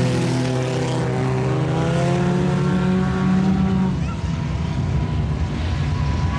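IMCA Sport Compact race cars' four-cylinder engines running at speed in a pack, their note rising slightly. About four seconds in, the nearest car's engine drops away and a fainter, steady engine note carries on.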